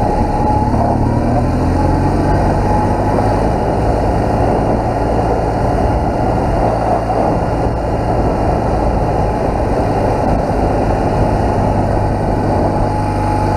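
BMW R1200GS boxer-twin engine running steadily as the motorcycle is ridden at easy revs along a dirt trail, with the revs rising briefly about a second in.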